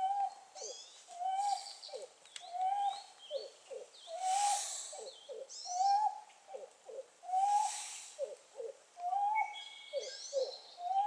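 Pied-billed grebe giving its hooting song, a hollow owl-like phrase repeated about once a second: a higher rising-and-falling note followed by two quick lower notes. Faint chirps from small songbirds sound in the background.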